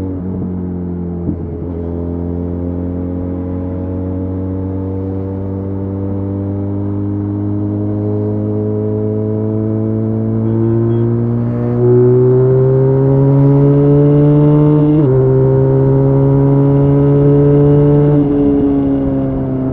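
Benelli Leoncino 500's parallel-twin engine pulling hard under load, its pitch climbing steadily as the bike gathers speed. There is a brief break for an upshift about a second in, and the engine gets louder about twelve seconds in. Near the end there are two more upshifts, each a sudden drop in pitch followed by a fresh climb.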